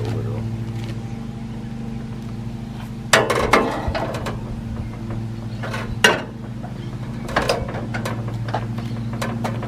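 Case 224 garden tractor engine cranking over without firing, a steady low hum, with a few sharp mechanical knocks around the middle. The new fuel pump is not yet delivering fuel.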